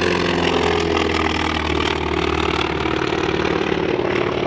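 Radial piston engine of a World War II warbird running at takeoff power: a steady propeller drone whose pitch sags slightly downward.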